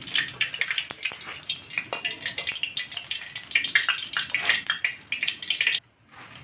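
Peanut oil heating in a pan, sizzling and crackling with dense little spits; the sound cuts off abruptly near the end.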